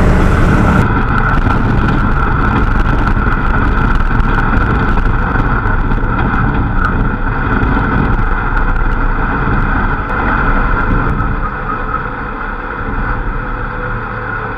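Ramp truck engine and exhaust running steadily under light throttle while driving, a loud, even drone that eases off somewhat near the end.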